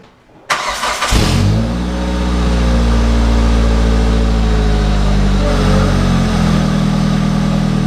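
Car engine starting about half a second in and settling into a steady idle, running through a newly fitted muffler in place of open headers.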